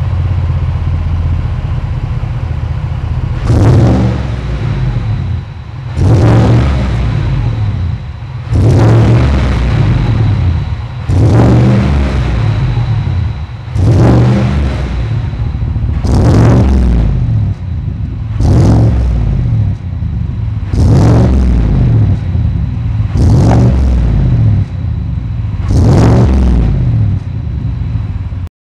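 Fourth-generation Cadillac Escalade's naturally aspirated 6.2-litre V8 running through a tuned mid-pipe exhaust. It idles for a few seconds, then is revved about ten times, roughly every two and a half seconds, each rev climbing and dropping back to idle.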